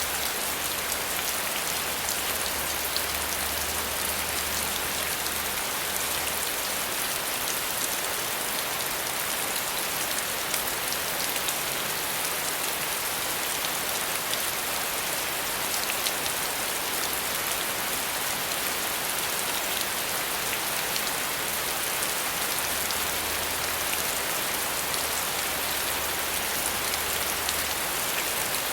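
Steady rain falling, an even hiss of many small drop ticks. A low rumble comes in under it for the first few seconds and again near the end.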